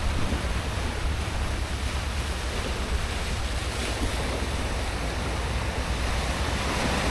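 Wind rumbling on the microphone over a steady wash of sea surf breaking on the shore.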